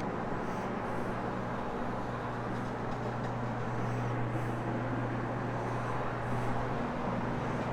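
Carpet-cleaning floor machine running steadily over the carpet with a fiber scrubbing pad: a continuous low motor hum that grows a little stronger about two seconds in.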